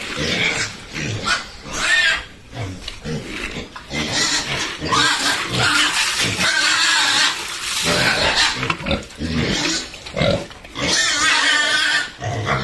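Hungry pigs squealing loudly and repeatedly at feeding time, many overlapping, wavering squeals at once.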